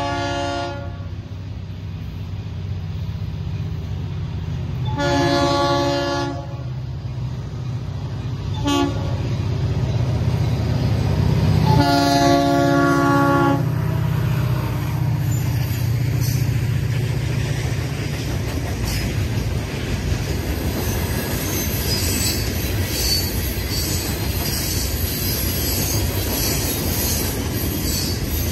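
Florida East Coast Railway freight locomotive sounding its multi-note horn in the grade-crossing pattern: a blast ending about a second in, a long blast about five seconds in, a short one near nine seconds, and a final long blast around twelve seconds, over the low rumble of its diesel engine. The locomotive then passes and freight cars roll by with clickety-clack and high wheel squeal.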